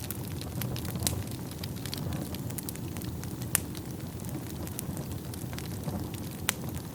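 Wood fire burning in a fireplace: a low steady rumble of flames with frequent sharp crackles and pops from the burning logs, a few louder pops standing out about a second, three and a half seconds and six and a half seconds in.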